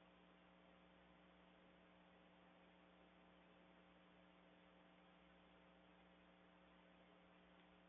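Near silence: a faint steady electrical hum with an even hiss, unchanging throughout.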